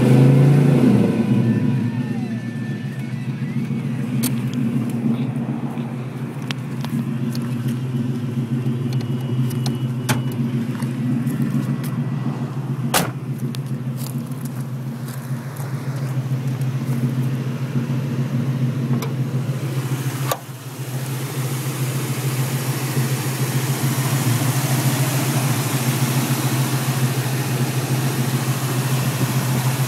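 1983 Ford Mustang's 5.0 L H.O. 302 V8 with a four-barrel carburettor, revved to about 3000 rpm and dropping back in the first second or two, then running at a steady idle. A couple of sharp clicks partway through, and in the last third the engine is heard more openly from the engine bay, with more hiss.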